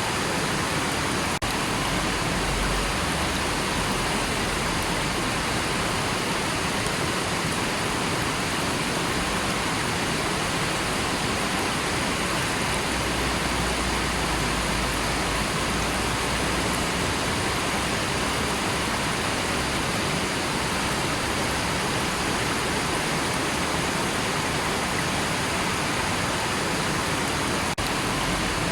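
A river rushing steadily, a dense, even wash of flowing water, broken by two split-second dropouts, one about a second and a half in and one near the end.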